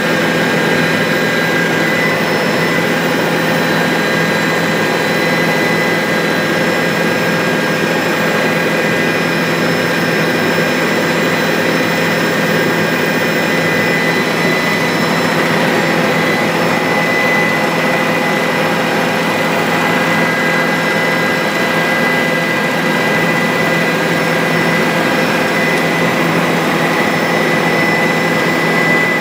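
Bell 407 helicopter in flight: steady turbine and rotor noise with a constant high whine, unchanging throughout.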